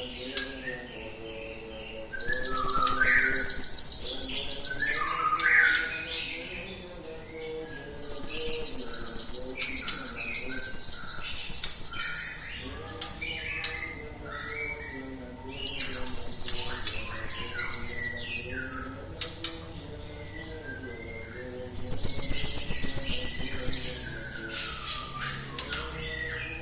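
Cinereous tit (gelatik batu) singing: four loud, fast, high trills of about two to four seconds each, with softer varied chirps between them. Faint steady low tones run underneath.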